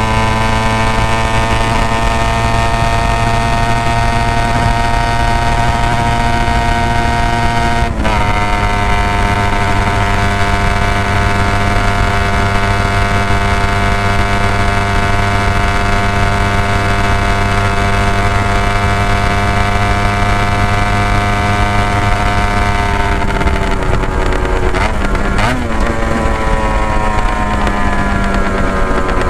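Honda NSR250 (MC21) two-stroke V-twin running through Dog Fight Racing expansion chambers at high, fairly steady revs, with a brief break in the note about eight seconds in. Near the end the revs drop and waver, then climb again. The sound is played back at double speed, which raises its pitch.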